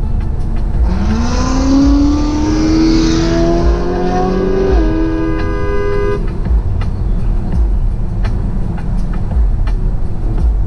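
Car engine revving up, its pitch climbing steadily for about four seconds, over a constant low road rumble from inside a moving car. Near the middle a brief buzzing tone sounds as the rise stops.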